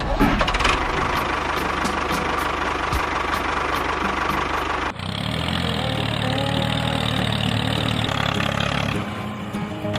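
A small machine motor running steadily. About halfway through there is an abrupt change to a different running engine sound with a deeper hum.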